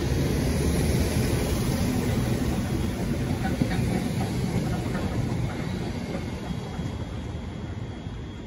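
Royal Mail Class 325 electric multiple unit running past on the main line: a steady rumble of wheels on rail with a few faint wheel clicks. The sound fades over the last few seconds as the rear of the train draws away.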